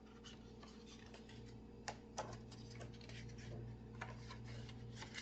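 Faint, irregular clicks and light taps over a steady low hum, the sharpest click about two seconds in.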